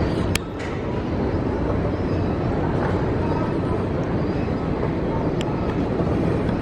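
Busy airport baggage-claim hall: a steady rumble of the running luggage carousel and surrounding machinery under background crowd voices, with two sharp clicks, one just after the start and one near the end.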